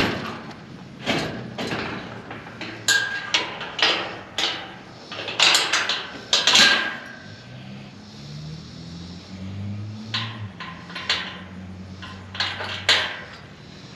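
A series of irregular knocks and clatters, like objects being handled and set down. About halfway through, a low steady hum comes in and continues under them.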